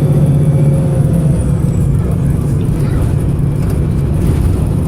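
VDL SB200 bus's diesel engine running under way, its low note and a faint whine falling in pitch over the first couple of seconds before settling to a steady rumble; the engine is misfiring.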